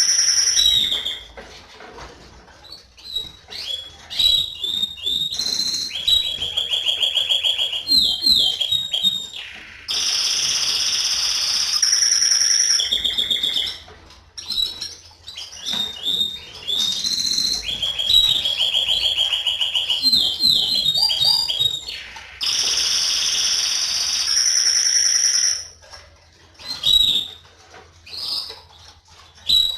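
Domestic canary singing: long phrases of rapid trills and rolls mixed with long held high notes, broken by short pauses.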